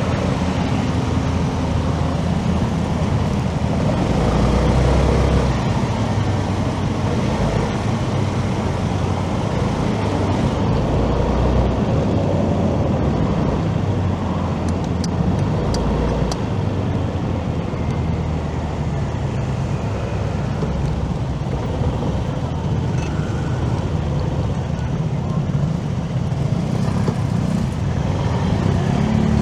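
Traffic and road noise heard while riding a motorcycle through city streets: engine and tyre noise with passing cars, and low rumbling surges of wind on the microphone a few times.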